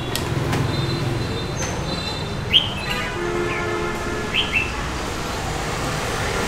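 A small bird chirps over steady street background noise: one sharp chirp about two and a half seconds in, then two quick chirps a couple of seconds later.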